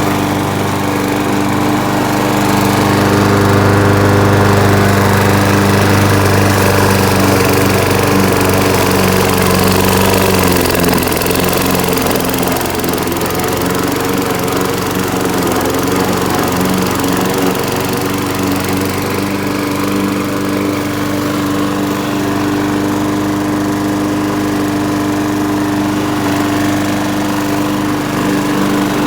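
Gasoline lawn mower engine running steadily, with a brief wavering in pitch about ten seconds in.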